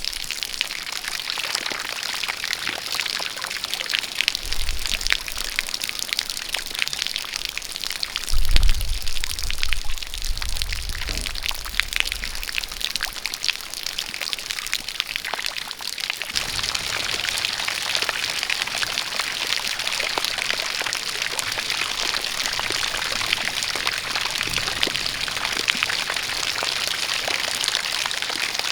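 Rain falling together with a stream of water pouring, with many separate drop sounds in it. A low rumble comes in about eight seconds in and lasts a few seconds, and about halfway through the sound turns into a steadier, denser hiss.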